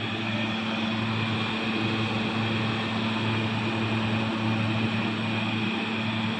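Steady motor hum and rushing air of a running fan.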